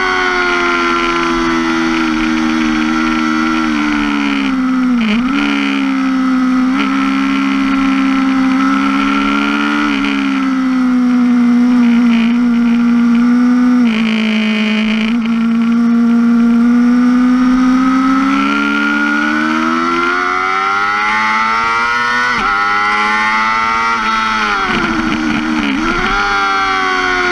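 2005 Yamaha R6's inline-four engine at full track pace, heard from the rider's seat: it climbs in pitch and drops sharply at gear changes, holds a long steady note through the middle, and falls away near the end with quick blips as the bike slows.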